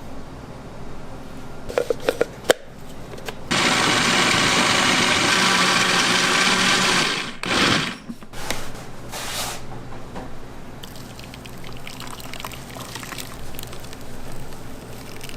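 Running water, starting abruptly about three and a half seconds in, running steadily for about four seconds and then cutting off, with shorter bursts after it. A few sharp clicks and knocks come before it.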